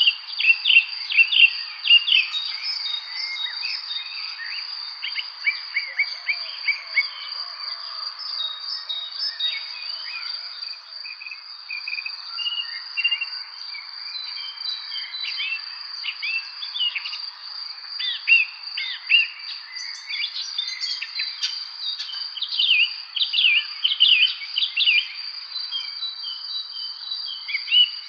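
Evening spring birdsong: many short, quick, downward-sweeping chirps from several birds, in busy runs near the start and again in the last third. Under them runs a steady, unbroken high insect trill, like crickets.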